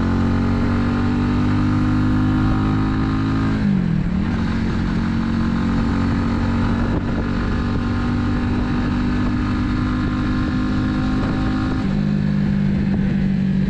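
Italika 250Z motorcycle's single-cylinder engine running under way. Its pitch climbs steadily as it pulls through a gear, dips briefly about four seconds in at a gear change, then holds a steady higher note. Near the end it drops abruptly to a lower steady note.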